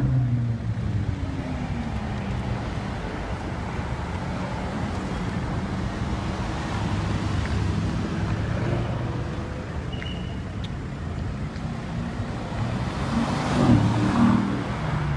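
A line of high-performance cars rolling slowly past at low speed, their engines running steadily. About 13 seconds in, one engine revs up, rising in pitch, and this is the loudest part.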